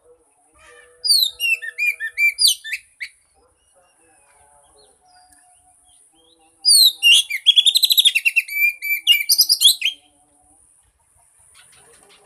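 Oriental magpie-robin (kacer) singing in two bursts of rapid, varied whistled notes, many sweeping downward. The first burst is short, about a second in; the second is longer and louder, from about seven seconds in.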